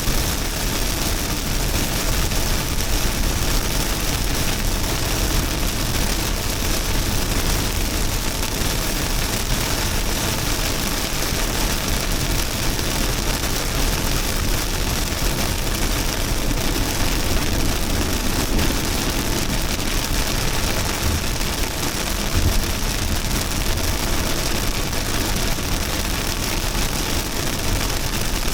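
Heavy rain pouring steadily: a dense, even hiss with a strong low rumble underneath.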